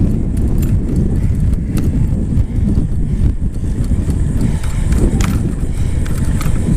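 Wind rumbling on the microphone while riding a bicycle, with scattered clicks and rattles from the bike and the camera.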